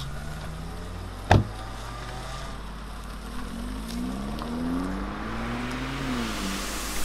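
A car engine running, then revving up with a rising pitch as the car pulls away, easing off near the end. There is one sharp thud about a second in.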